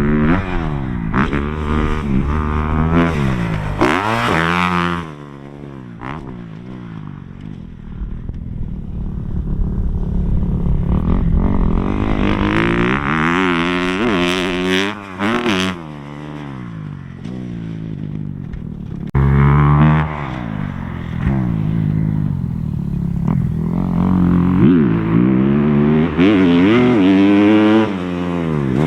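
Motocross dirt bike engine revving up and down repeatedly as it is ridden around the track, its pitch rising and falling with throttle and gear changes. It drops quieter for several seconds around the first third, then comes back loud, with an abrupt change in the sound about two-thirds through.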